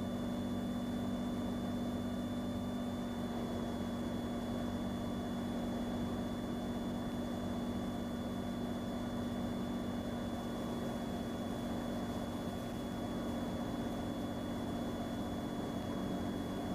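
Steady drone of a Cirrus SR22's six-cylinder piston engine and propeller heard in the cabin, with a low hum and a thin high tone held throughout.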